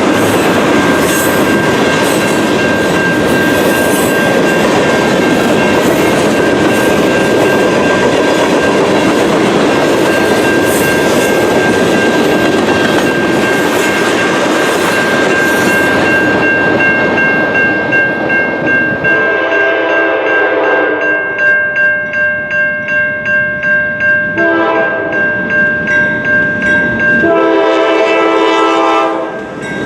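A freight train rolling past with steady wheel and rail noise, which fades about two-thirds of the way in. A locomotive air horn then sounds three blasts, long, short and long, over the steady ringing of a grade-crossing bell.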